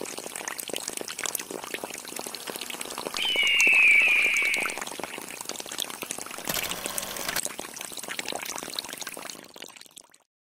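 Water pouring and splashing from a miniature DIY water pump, with a brief high squeal, the loudest sound, about three seconds in. The sound fades out near the end.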